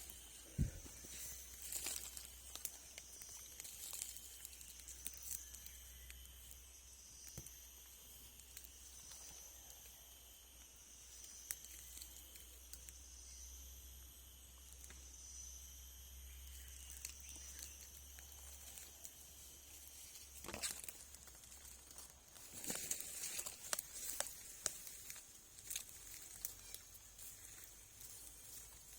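Faint outdoor ambience: a steady, high-pitched chirring of insects, with scattered rustling and clicks that grow busier after about twenty seconds.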